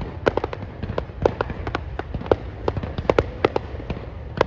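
Fireworks going off: a fast, irregular run of sharp bangs and pops, several a second, over a steady low rumble.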